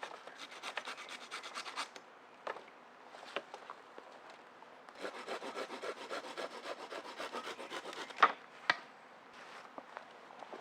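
Wood being sawn by hand in two runs of quick, even rasping strokes, with a pause between them. Two sharp knocks follow near the end.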